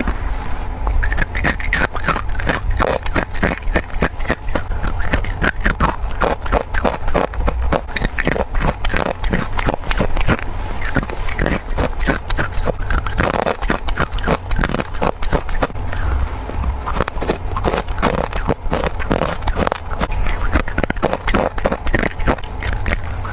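A person biting and chewing freezer frost in rapid, continuous crisp crunches, many per second, over a low steady hum.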